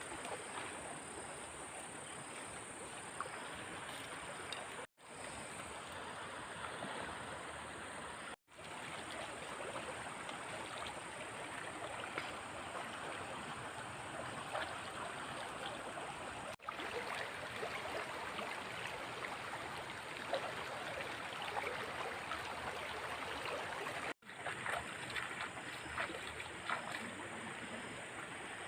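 Floodwater flowing and splashing in a steady rush. The sound drops out abruptly four times for an instant, at edit cuts.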